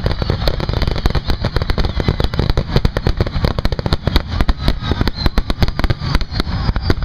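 Aerial fireworks exploding in a rapid, unbroken barrage: many sharp bangs per second, overlapping one another.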